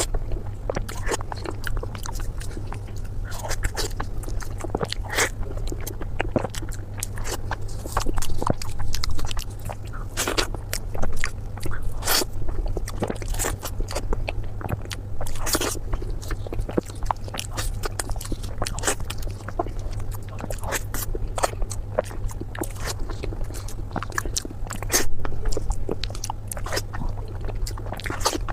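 Close-miked eating: a person chewing and biting food, with wet smacking and crunchy clicks at an irregular pace and a few louder bites along the way, over a steady low hum.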